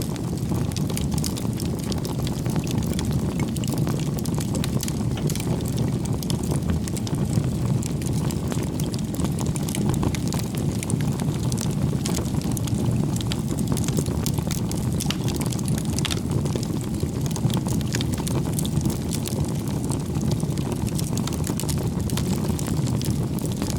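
Bonfire burning: a steady low roar of flames with many small, sharp crackles and pops of the burning wood.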